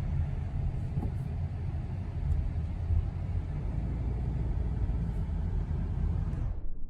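Steady low rumble of a car's engine and road noise, cutting off abruptly near the end.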